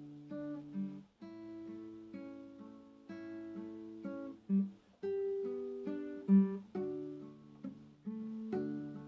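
Acoustic guitar (violão) playing slow, gentle music, plucked chords and single notes ringing out a few to the second, with two brief pauses and a couple of louder low notes.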